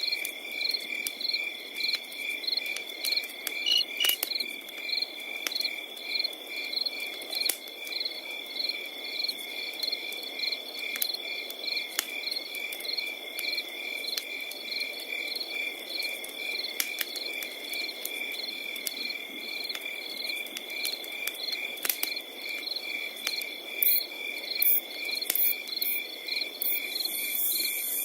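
Crickets chirping in rapid, evenly repeating pulses over a continuous high trill, with sharp pops and crackles from a burning wood fire scattered throughout. A higher, hissing insect sound joins near the end.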